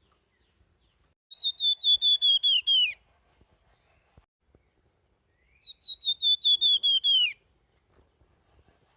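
A flamboyan songbird singing two fluting phrases, each a quick run of about ten clear whistled notes that slide lower at the end, a few seconds apart.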